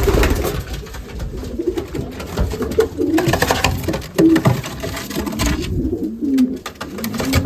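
Racing pigeons cooing inside a loft, several birds' low, wavering coos overlapping, with scattered sharp clicks among them.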